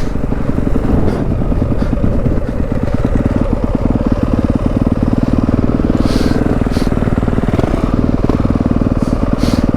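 Dirt bike engine running at a steady pace under way, with a fast, even pulsing of its firing strokes.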